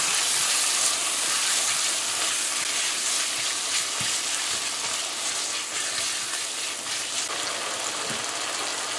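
Chicken pieces sizzling in hot oil and curry paste in a karahi while being stirred with a silicone spatula; the sizzle eases slowly, with a couple of light knocks.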